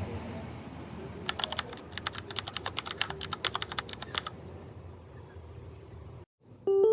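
A quick run of light, sharp clicks lasting about three seconds over a steady background hum, in the manner of keys being typed. Music comes back in just before the end.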